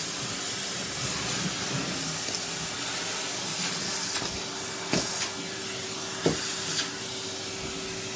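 Numatic Henry cylinder vacuum cleaner running with a steady hiss of rushing air; a steady hum comes in a little past halfway. Two sharp clacks about five and six seconds in.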